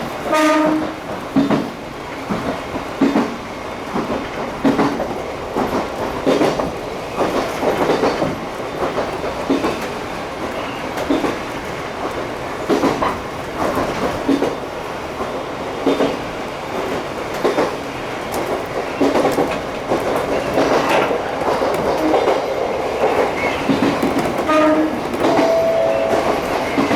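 Chichibu Railway 1000 series electric multiple unit running, heard from the front of the train: a steady running noise with wheels clicking over rail joints every second or two. A short horn-like blast sounds right at the start, and brief pitched tones come near the end.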